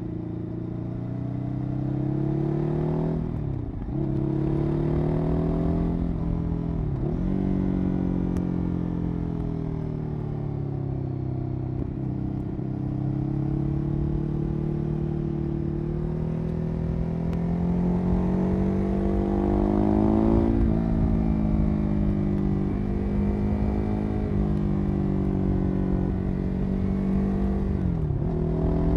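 Ducati Hyperstrada 821's L-twin engine running through its exhaust while riding. The pitch slowly rises and falls with the throttle, with quick dips and recoveries in pitch at gear changes a few seconds in and again near the end.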